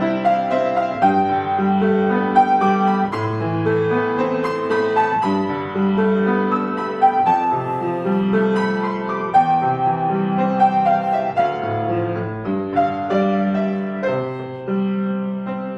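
Solo piano playing: a melody in the middle register over an alternating bass line, the notes ringing on into one another.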